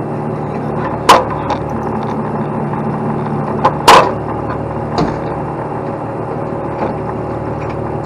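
Big diesel truck engine running steadily, with several sharp knocks over it, the loudest about a second in and just before four seconds in.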